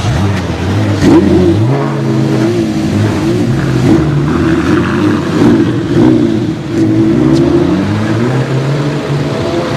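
Porsche Cayman R's 3.4-litre flat-six with a Fabspeed Race exhaust, loud, its pitch rising and falling again and again as it is revved up and down.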